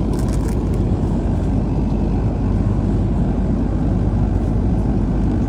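Steady low drone of an airliner heard from inside the passenger cabin: engine and airflow noise at an even level.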